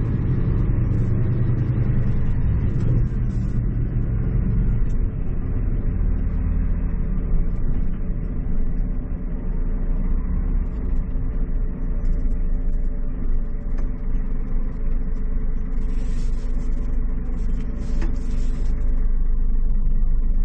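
Scania truck's diesel engine running as the truck drives off, a steady low rumble heard from inside the cab. Two short hisses come near the end.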